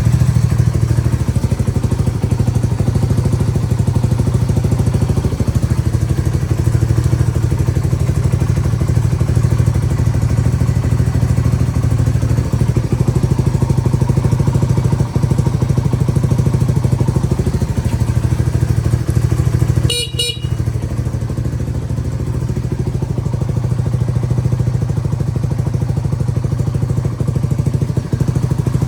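Yamaha TW200's air-cooled single-cylinder four-stroke engine idling steadily. About twenty seconds in there is a brief high beep from the horn, and the engine runs a little quieter after it.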